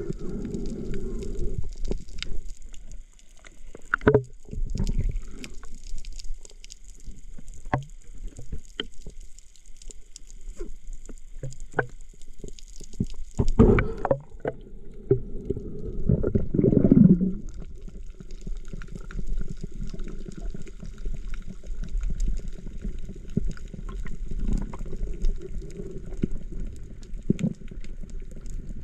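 Muffled water sounds with a steady low rumble and scattered sharp clicks, like an action camera in the sea. Two louder swells, about halfway and a few seconds after, sound like a gurgle of bubbles.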